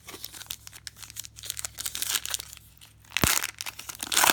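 Foil wrapper of a trading-card pack crinkling and tearing as it is opened by hand, a run of irregular crackles with a sharp louder one about three seconds in and more near the end.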